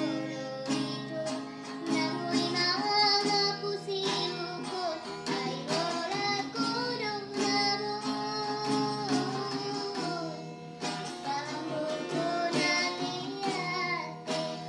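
A voice singing a melody to plucked acoustic guitar.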